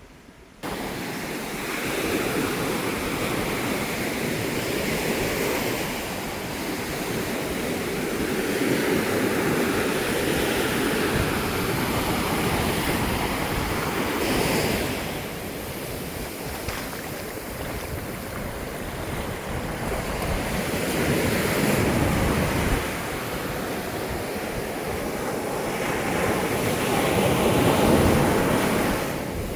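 Rough sea surf breaking on a beach in strong wind, swelling and easing every few seconds, with wind buffeting the microphone.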